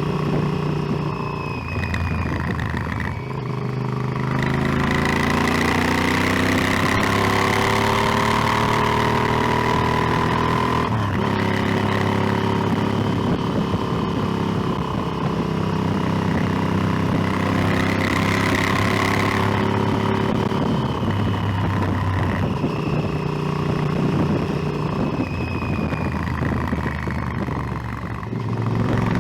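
Motorcycle engine running under way, revving up through about the first ten seconds, a brief break near the middle as it shifts gear, then holding steady and easing off twice near the end, with wind rushing over the microphone.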